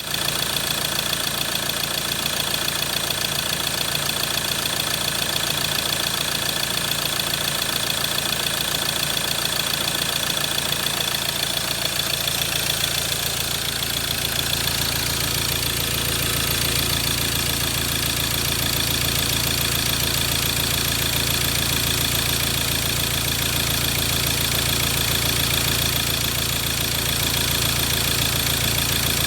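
Mazda BT-50's 2.2-litre four-cylinder turbo-diesel engine idling steadily; the low rumble grows fuller about halfway through.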